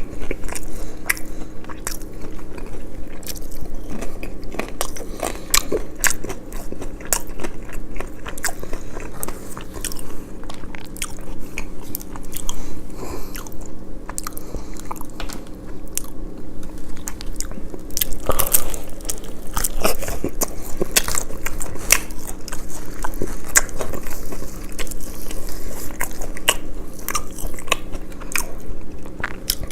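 Close-miked eating: repeated crunchy bites and chewing of crispy fried food, with dense irregular crackles throughout.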